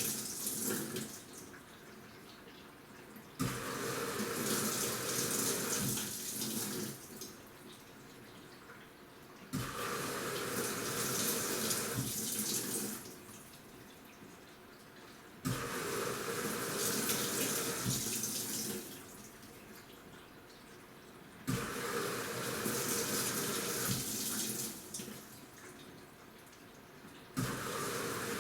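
AQUA washing machine with a DDM inverter direct-drive motor churning the wash in water. Each spell of sloshing starts with a sudden click and runs for a few seconds, then drops to a quieter lull, repeating about every six seconds as the wash action alternates.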